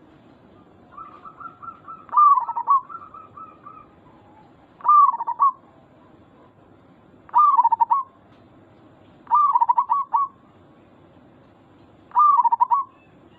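Zebra dove (perkutut) cooing: five short phrases of rapid trilled coos, one every two to three seconds, with softer, quieter coos between the first two phrases.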